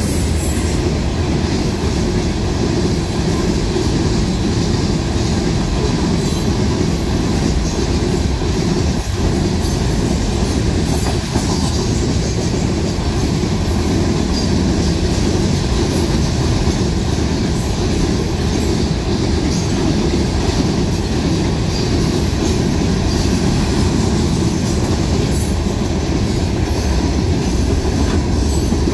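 Freight cars of a Canadian National manifest train, covered hoppers and then gondolas, rolling past at close range: steady, loud noise of steel wheels running on the rails.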